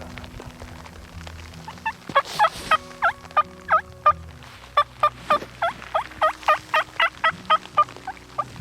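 Turkey calling: a long run of short, sharp yelping notes, about four a second, starting about two seconds in, with a brief pause midway, over soft background music.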